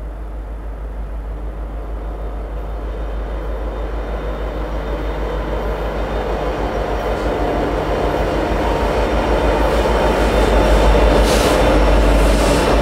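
Union Pacific freight train's lead diesel-electric locomotives approaching and passing, their engine sound growing steadily louder, with a couple of brief high hisses near the end.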